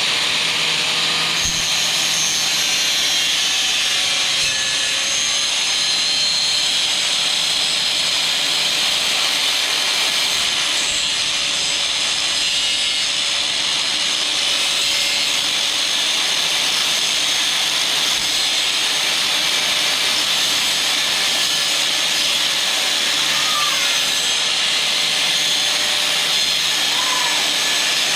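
Porter Cable PC750AG 4.5-inch angle grinder with a cutoff wheel cutting steel: a steady, unbroken high grinding noise, with the motor's whine wavering slightly underneath.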